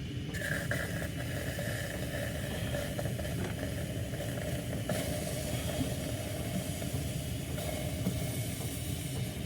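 Jetboil camp stove's gas burner running with a steady hiss over a low rumble, the hiss starting about a third of a second in as the burner is lit.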